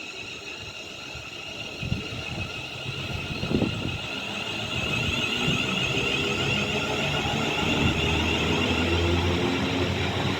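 Two coupled Class 350 Desiro electric multiple units pulling out, their traction inverters and motors whining in several steady high tones that grow louder as the train passes. Two short thumps come in the first few seconds, and a low rumble joins near the end.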